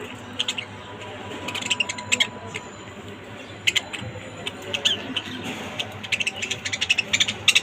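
Lovebirds chirping: many short, sharp high-pitched chirps in quick clusters, busiest near the end.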